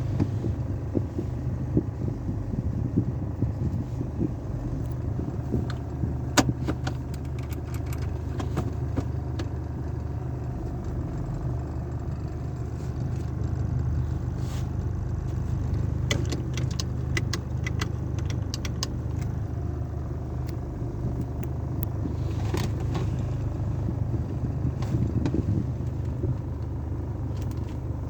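Sonny's tunnel car wash machinery running with a steady low rumble, with clusters of sharp clicks and taps several times.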